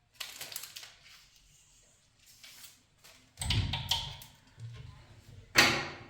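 A brief scraping or rustling noise, then a heavy low thud and a sharp knock a couple of seconds apart, each dying away quickly.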